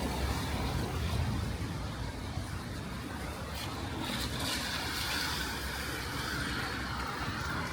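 City traffic on wet streets: a steady low rumble of cars, with tyre hiss on the wet road swelling from about four seconds in.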